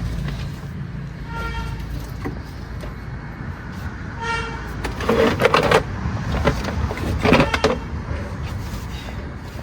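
Car engine running with a low steady rumble, two short horn toots, then two louder sudden noises.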